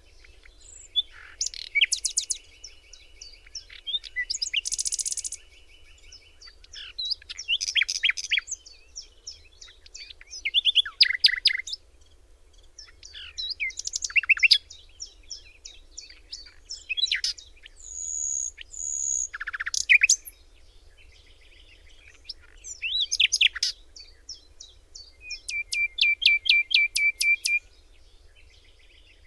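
Songbird singing: short phrases of rapid, high-pitched chirps and trills, repeated every few seconds with brief pauses, with one fast, even trill near the end.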